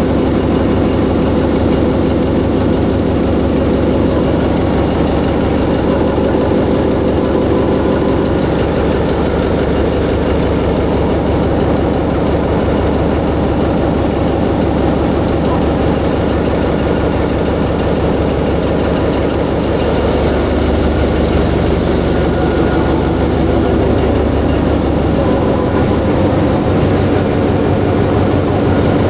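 Freshly overhauled diesel generator engine running steadily on its test run, at an even speed throughout.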